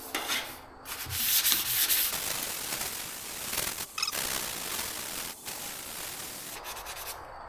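Sanding the painted surface of a car body panel with 500-grit sandpaper, a steady scratchy rubbing that stops about half a second before the end.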